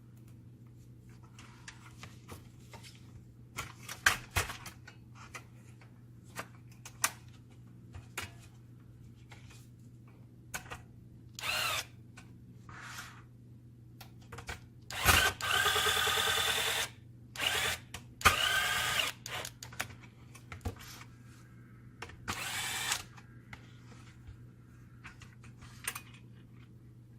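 Cordless electric screwdriver run in several short bursts, each with a whine that rises as the motor spins up, the longest lasting about two seconds. Clicks and knocks of screws and parts being handled fall between the bursts.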